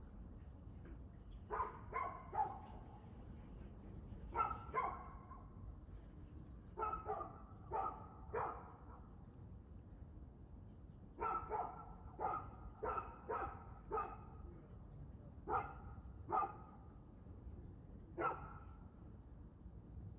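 A dog barking in short bouts of two to six barks, with pauses of a second or two between bouts; the last bark, near the end, stands alone.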